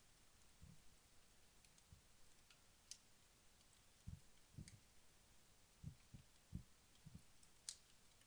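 Faint, sparse crackles and ticks from a wood-log fire burned down to its last embers: scattered soft low pops, with a sharper snap about three seconds in and another near the end.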